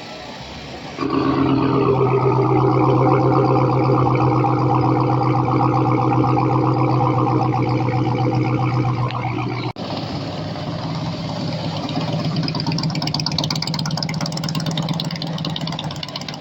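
Motor vehicle engines running loudly. One holds a steady note for about nine seconds, then an abrupt change just before ten seconds in brings a different engine with a fast, fluttering rattle.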